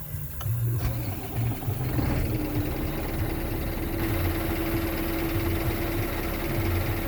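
Scania R500 truck's V8 diesel engine running at idle, a steady low rumble, with a steady hum joining it about two seconds in.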